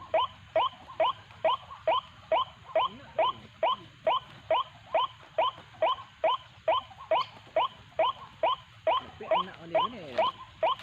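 White-breasted waterhen (ruak-ruak) calling: an even, fast series of short rising notes, a little over two a second, from the decoy call used to lure waterhens into the snares.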